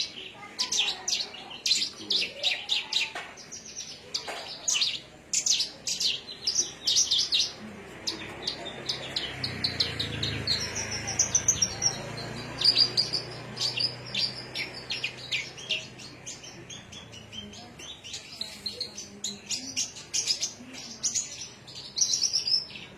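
Malaysian pied fantail (Rhipidura javanica) singing: a long run of quick, high chirping notes broken by short fast trills.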